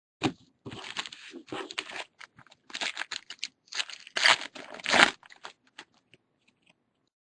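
A trading-card pack wrapper being torn open and crinkled, a run of tearing and crumpling noises with the loudest rips about four and five seconds in, fading out a couple of seconds before the end.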